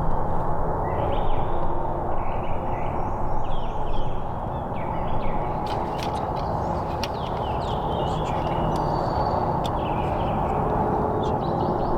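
Several songbirds chirping and trilling in short repeated phrases, with a few sharp ticking notes in the middle, over a steady low outdoor background noise.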